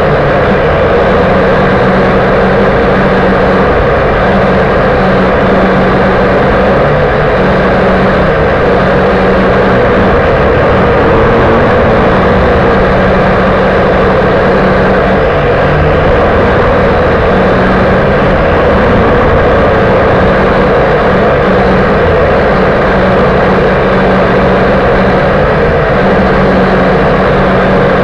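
Small multirotor motors and propellers of a WLtoys V959 quadcopter running steadily close to the microphone, a constant loud buzz whose pitch barely changes.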